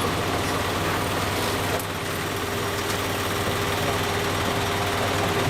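A vehicle engine idling steadily. A steady whine joins it about a second and a half in and stops shortly before the end.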